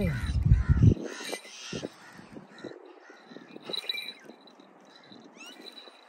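A bird calling in a quick series of harsh, caw-like calls for the first second or so, over a low rumble that stops abruptly. Scattered fainter calls and a short rising whistle follow near the end.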